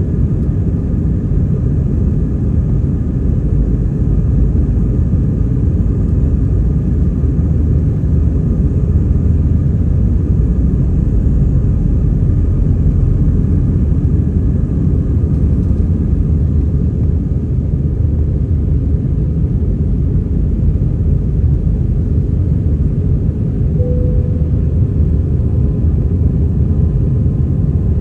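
Airbus A320-200 airliner on takeoff: a loud, steady low rumble of its jet engines and airframe.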